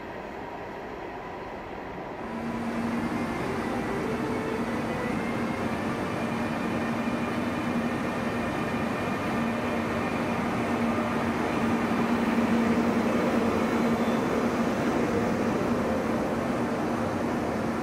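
Loco-hauled Flixtrain passenger train, an electric locomotive pulling its coaches, rolling past along the platform. There is a steady electric hum over the rumble of wheels on rail. The sound comes in about two seconds in and grows louder towards the middle.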